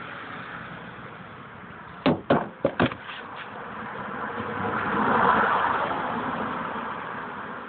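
Fireworks shells bursting: four sharp bangs in quick succession about two seconds in, followed by a swelling and fading rush of noise a few seconds later, over steady background noise.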